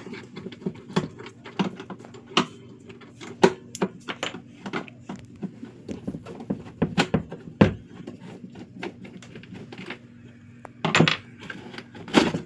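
Irregular metallic clicks and clinks of multi-grip pliers working hose clamps off the heater core's pipes, with a couple of louder knocks near the end.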